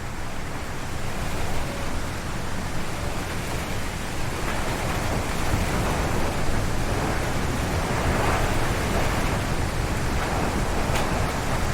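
Strong wind gusting through forest trees, a continuous rush of air that swells about four seconds in and stays strong, over a steady low rumble.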